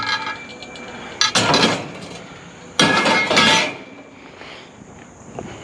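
Pieces of scrap metal tossed onto a load, clattering and clanging with a short metallic ring, twice: about a second in and again about three seconds in, the second louder.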